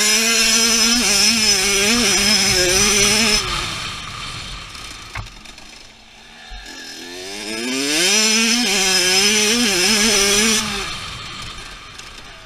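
Two-stroke dirt bike engine revving hard, its pitch rising and falling as the throttle works. It is loud for the first few seconds, fades as the bike moves off, comes back loud about seven seconds in, then fades again near the end.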